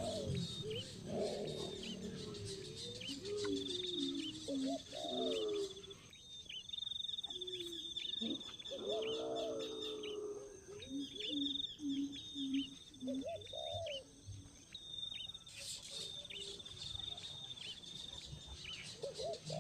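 Birds calling: a series of low, pitched notes and short gliding calls, over a high, rapid trill that starts and stops several times.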